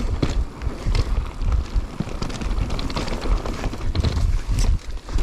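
Mountain bike rolling over a rough dirt trail: a steady low rumble from the tyres and the air rushing past, with irregular knocks and rattles from the bike over bumps.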